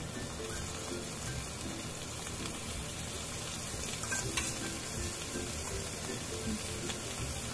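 Fried onions and whole spices sizzling in hot oil in a non-stick frying pan as cumin paste is spooned in, a steady frying hiss with a light click or two from the spoon about halfway through.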